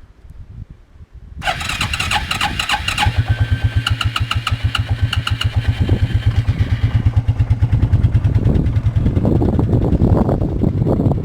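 Suzuki QuadRunner 300 ATV engine on a cold start: it dies away almost to nothing, then catches about a second and a half in and runs with a fast, even pulsing. It gets rougher and louder from about seven seconds in.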